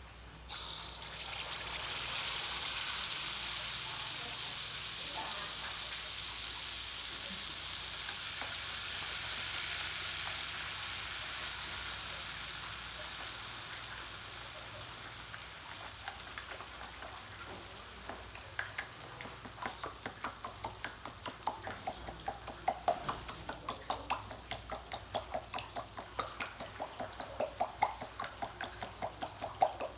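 Cakes frying in hot oil. A loud sizzle starts suddenly about a second in and slowly dies down, then gives way to rapid crackling and popping from the oil.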